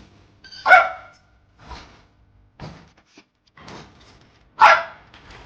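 A dog barking: two loud, sharp barks about a second and four and a half seconds in, with fainter short sounds between.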